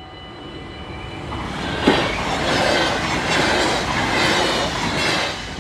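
NS double-deck electric passenger train passing over a level crossing. Its noise builds over the first second or two, with a sharp knock about two seconds in, then a steady rush of wheels on rail that drops away near the end. The crossing's warning bell rings steadily at the start and is drowned out once the train arrives.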